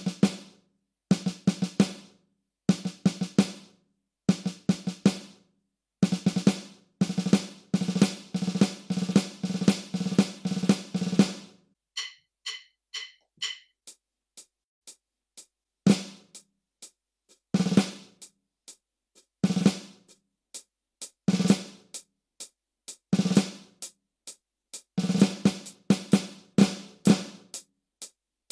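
Snare drum played in quick clusters of strokes, five-stroke rolls, then a dense run of strokes. In the second half, single snare accents fall about every two seconds over a steady light ticking of about three ticks a second.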